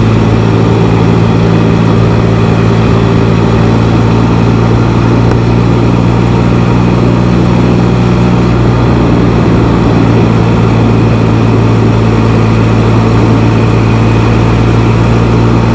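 Can-Am Spyder three-wheeled motorcycle's engine running at steady revs while cruising, a constant hum with road and wind noise over it.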